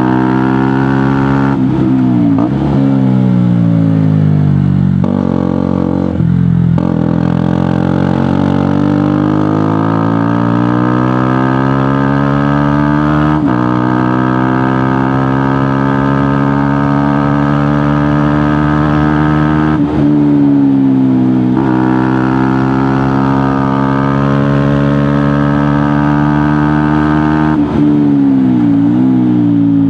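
KTM Duke motorcycle with an aftermarket GPR exhaust, riding and accelerating. The engine note climbs steadily in pitch, then drops sharply at each of several gear changes, and falls off and picks up again as the bike slows and speeds up.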